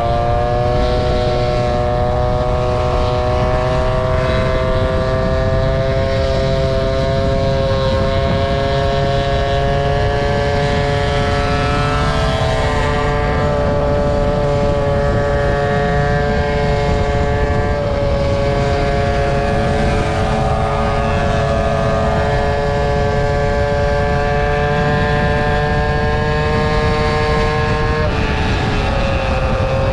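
Scooter engine running at a steady cruising speed: a held droning note that creeps slowly up in pitch and dips briefly near the end. It sits over a dense low rumble.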